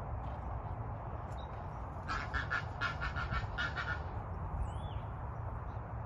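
A bird calling in a quick run of about ten evenly spaced notes, some five a second, lasting about two seconds, over a steady low rumble; a short chirp follows.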